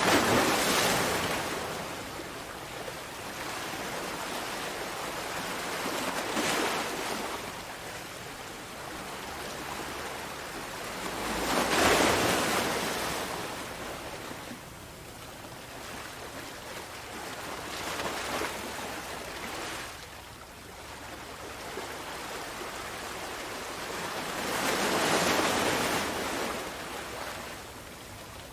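Sea waves breaking on a shore, a steady wash of surf that swells with each wave, with the biggest breakers near the start, about halfway through, and near the end.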